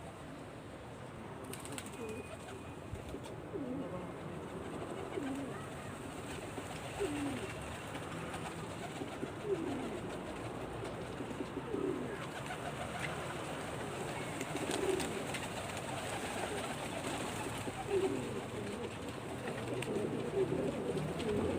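Domestic pigeons cooing, low calls repeating every second or two, more often toward the end.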